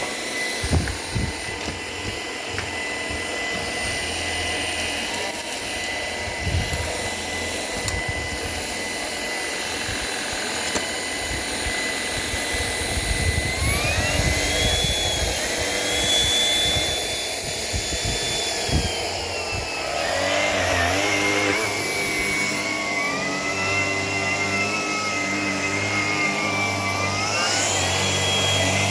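Shark PowerDetect IP1251 cordless vacuum running with a steady high motor whine. The whine steps up in pitch about halfway through, drops back a few seconds later, and rises again near the end as the motor changes speed. A few low thumps come in the first half.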